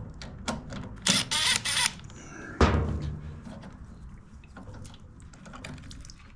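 Hand-tool and parts handling on a workbench while a 10 mm bolt is taken off a small carburetor's float bowl: light clicks and taps, a short rasping burst about a second in, and a single solid clunk a little before the three-second mark.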